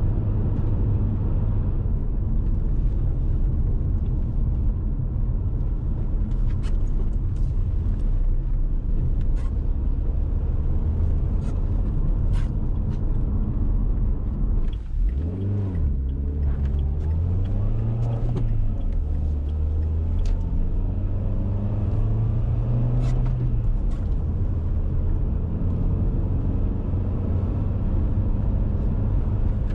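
Dacia Duster 1.6 SCe's naturally aspirated four-cylinder petrol engine pulling the car along, with road noise and scattered light clicks. About halfway through the sound dips briefly, then the engine note climbs, falls and climbs again before settling back into a steady drone.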